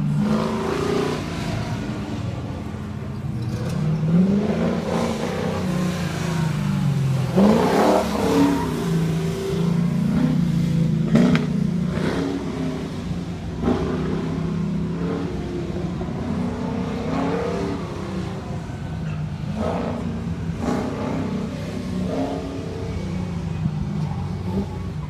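Car engine revving hard through an autocross course, its pitch climbing and dropping again and again as the driver accelerates and brakes between the cones.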